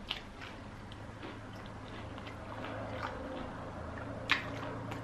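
Close-up chewing of fried chicken, with scattered short, wet mouth clicks and one sharper bite about four seconds in.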